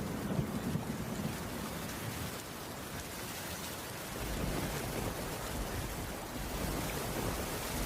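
Heavy rain falling steadily, an even hiss with low rumbling that swells near the start and again from about four seconds in.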